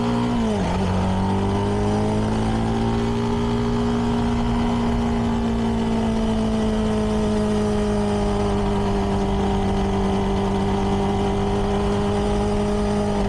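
CFMoto 300NK's 292 cc single-cylinder engine through its stock exhaust, under way at a steady cruise. The revs dip sharply about half a second in, climb back over the next couple of seconds, then hold nearly steady.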